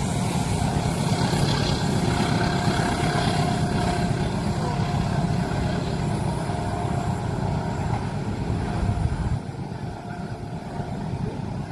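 Long train passing over a level crossing: a steady rumble of wheels on rail that drops off abruptly about nine seconds in.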